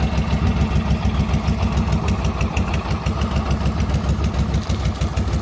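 A 1400cc motorcycle engine idling steadily with an even, lumpy pulse of about five beats a second.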